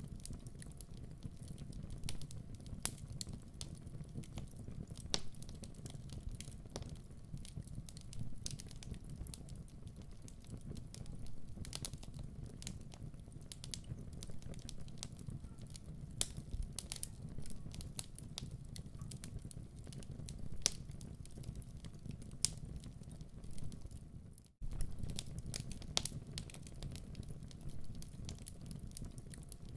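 Wood fire burning in a fireplace: a low steady rumble of flames with irregular sharp crackles and pops from the burning logs. Near the three-quarter mark the sound cuts out for a split second and comes straight back.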